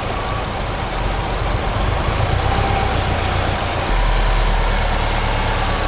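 Subaru car engine idling steadily while aerosol upper-engine cleaner is drawn into its intake manifold by engine vacuum. The engine note gets deeper and stronger about four seconds in.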